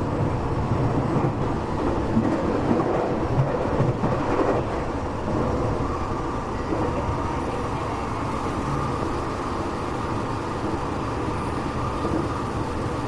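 Tokyo Metro 8000 series train heard from inside a passenger car while running: a steady rumble of wheels on rail. Clacks and knocks over the first few seconds settle into a smoother, even running noise with a faint steady whine.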